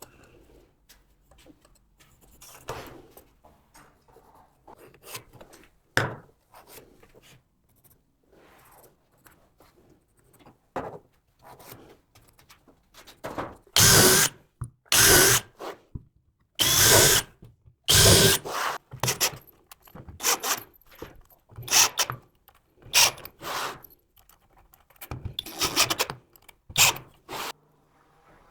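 Woodworking tool work on timber: a series of short, irregular bursts. They are faint at first, then louder and closer together from about halfway through.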